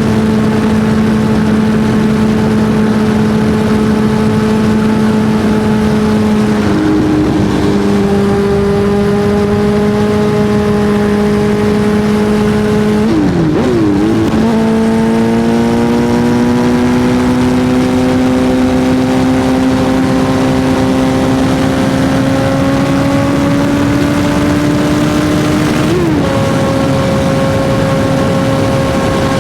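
Suzuki GSX-R1000's inline-four engine running at a steady high pitch while riding. The note breaks and drops briefly about 7 seconds in, again around 13 to 14 seconds, and once more near 26 seconds, and between the second and third breaks it climbs slowly as the bike gathers speed.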